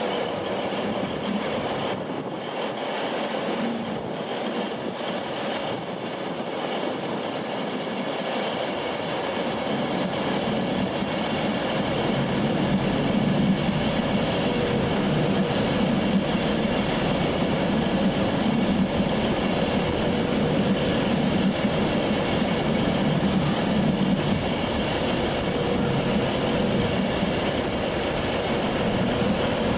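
Passenger train running along the track: steady rail and wheel noise that grows louder and fuller about a third of the way in.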